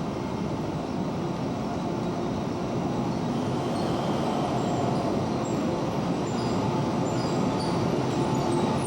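Electric commuter train running on the line: a steady rumble of wheels on rail that grows slowly louder.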